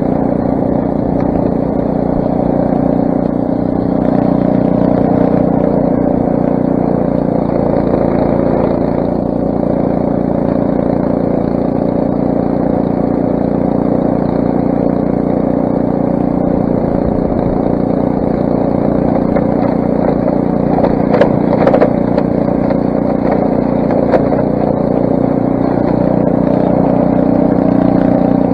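Craftsman snowblower's 6 hp Briggs & Stratton engine running steadily, with a few brief knocks about two-thirds of the way through.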